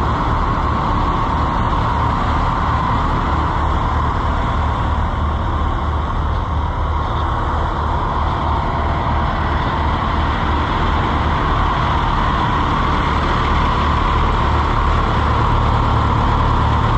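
Several old farm tractor engines idling together, a steady low chugging with even firing pulses.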